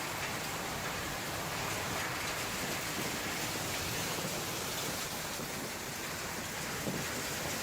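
Heavy rain and strong wind making a steady, even rush of noise during a storm.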